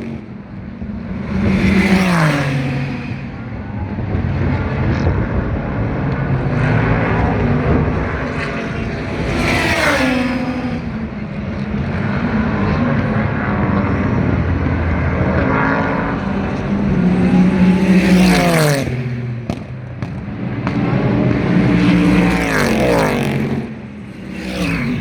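Super GT race cars passing close by at speed, their engines sweeping down in pitch as each one goes past. There are about four loud pass-bys, with other cars' engines running between them.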